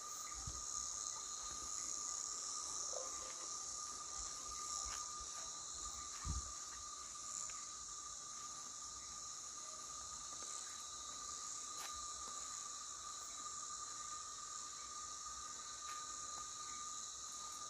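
Crickets and other insects calling in a steady dusk chorus, a continuous high shrill with a lower steady tone beneath it. A soft low thump about six seconds in.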